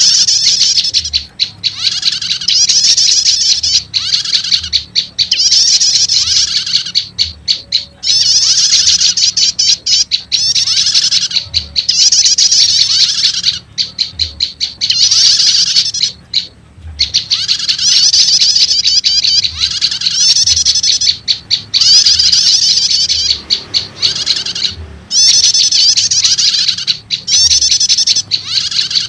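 Lure recording of prenjak lumut calls mixed with prenjak starter calls: loud, rapid, high chattering trills repeated in phrases about once a second with short breaks. It is meant to draw in wild prenjak lumut.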